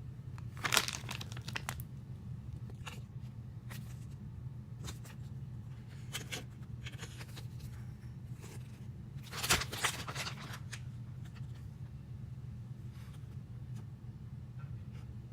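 Toy packaging being torn open and crinkled, in two short bursts, about a second in and around ten seconds in, with fainter rustles between, over a steady low hum.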